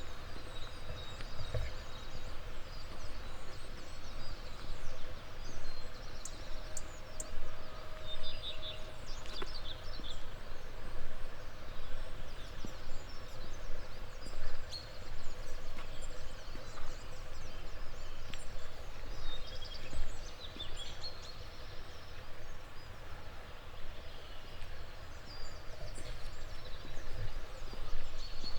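Small birds chirping and singing in short scattered phrases over a steady background of outdoor noise.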